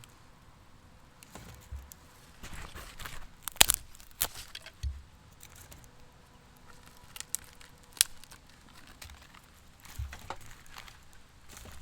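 Scattered sharp clicks and light knocks with faint rustling, the loudest clicks a little under 4 s in and about 8 s in.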